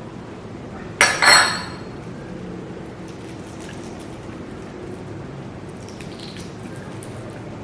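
Two quick clinks of a utensil against a dish about a second in, ringing briefly, then faint small ticks of tableware.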